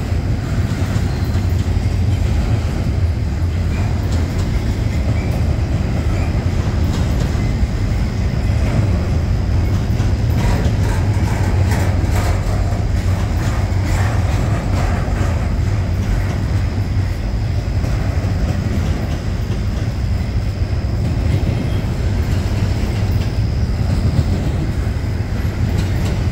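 Double-stack intermodal train rolling past close by: a steady, heavy rumble of well cars on the rails. A run of wheel clicks and light metallic squeals comes about halfway through.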